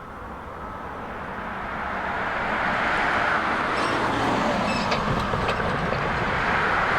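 A vehicle approaching: a rushing, rumbling noise that swells over the first three seconds and then holds steady.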